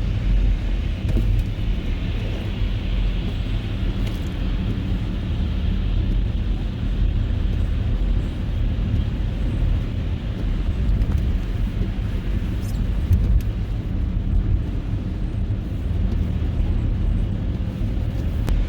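A car driving on a snow-covered road: a steady low rumble of engine and tyre noise.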